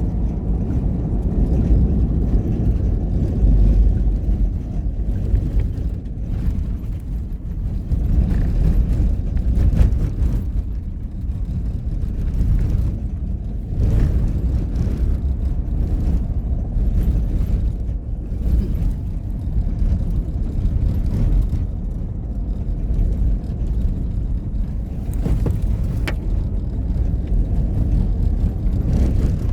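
A moving vehicle's steady low rumble, with a few faint clicks.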